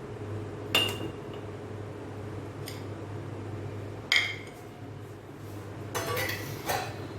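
A serving spoon clinking and scraping against the cooking pan and serving dish as cooked chicken is dished out: a few sharp clinks that ring briefly, a pair of them near the end, over a low steady hum.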